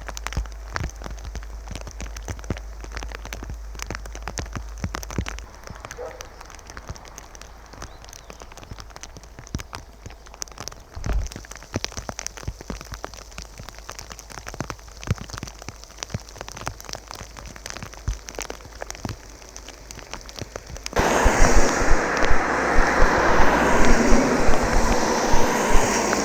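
Volcanic ash and grit from Etna falling and pattering on surfaces like rain, as dense irregular ticks. About 21 seconds in, a louder and denser rushing patter takes over.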